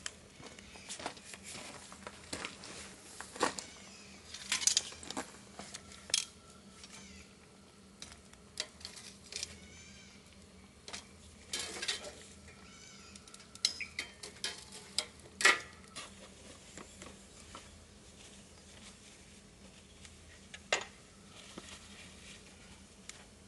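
Scattered clinks and clatter of dishes and cooking utensils being handled, coming in irregular bursts, with a sharp loudest knock about two-thirds of the way in.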